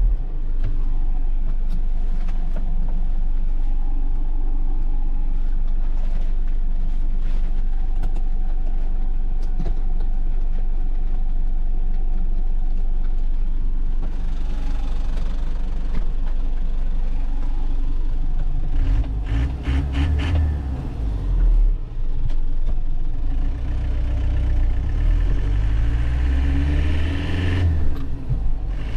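In the cab of a 2001 Nissan Cabstar light truck on a rough road: steady engine and road rumble, with repeated knocks and rattles from the bumpy surface. About two-thirds of the way in, the engine revs up in rising pitch. Its sound dips briefly twice, near the middle of that stretch and near the end, at gear changes of the manual gearbox.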